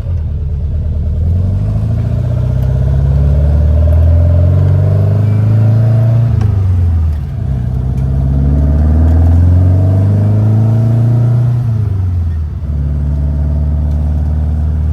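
VW air-cooled flat-four, a 1904cc stroker, pulling the car up through the revs, with a short drop in pitch and level at each of two gear changes, about 7 and 12 seconds in, then running steady.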